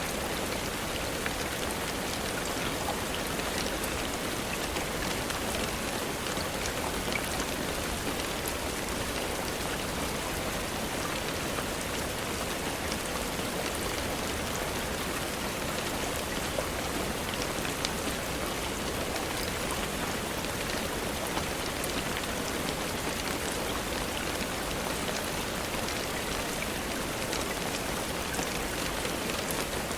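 Steady rain falling, an even dense patter, with scattered faint crackles of a wood fire in a fireplace.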